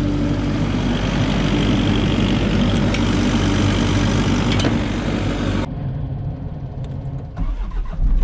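Skid loader engine running hard, heard from inside the cab, with a steady hum. About two-thirds of the way in it cuts off abruptly and is replaced by a quieter, lower engine rumble that grows louder near the end.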